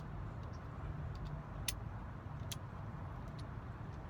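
A few light, sharp metallic clicks from small mortise lock parts being handled and fitted, the two clearest a little under a second apart near the middle. Under them runs a steady low rumble with a hum.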